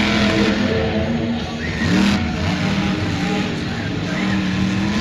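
Monster truck's supercharged, alcohol-burning V8 engine running and revving, its pitch rising about two seconds in.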